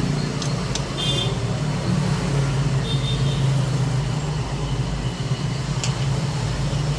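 Steady low hum over an even background noise, with a few light clicks and a short high-pitched beep about a second in.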